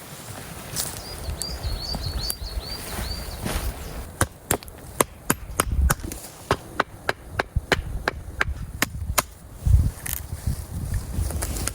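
A knife chopping on a wooden board: a quick run of sharp knocks, about three a second, for about five seconds from a third of the way in. Before that, a bird gives a run of short high chirps.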